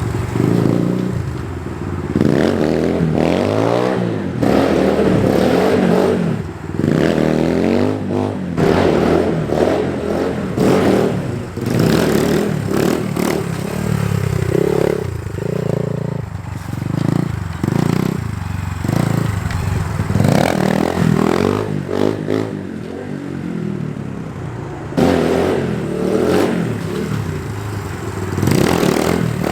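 SSR 150 dirt bike's single-cylinder four-stroke engine revving up and dropping back again and again as the throttle is snapped open to pop the front wheel up for wheelies, the pitch climbing and falling every second or two.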